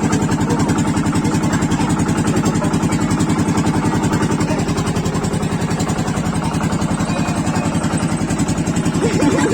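Motorboat engine running steadily at cruising speed, a fast, even pulsing note that holds without change.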